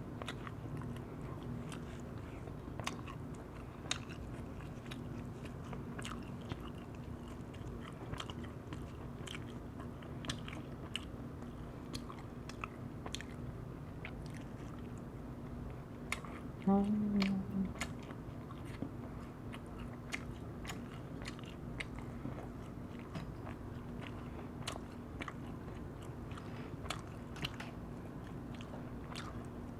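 Close-miked chewing and biting of firewood-roasted whole chicken: many small wet mouth clicks and crunches, over a steady low hum. A brief low pitched sound a little past halfway is the loudest moment.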